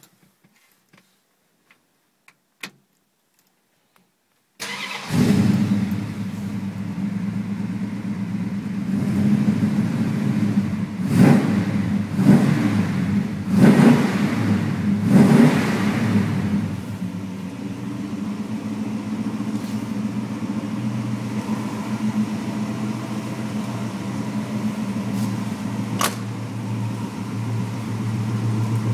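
1960 Plymouth Fury's 361 cubic-inch Golden Commando V8, rebuilt with .060 oversize pistons, a Mopar performance camshaft and 11:1 compression, starting abruptly about four and a half seconds in after a few faint clicks. It is revved four times in quick succession, then settles into a steady idle.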